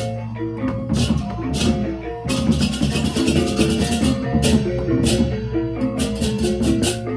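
Balinese gamelan playing: quick runs of bright gong-chime notes over a steady low pulse, with bursts of rapidly clashing cymbals coming and going.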